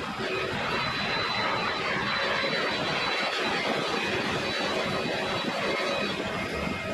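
Jet airliner engines: a steady rush of engine noise with a thin, steady high whine over it.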